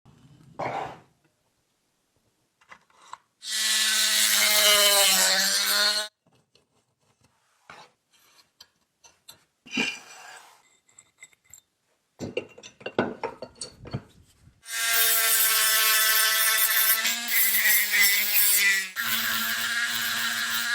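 A small electric power tool runs in two long bursts, its motor pitch sagging slightly as it is pressed into the work. Between the bursts come short knocks and scraping as parts are handled and worked by hand.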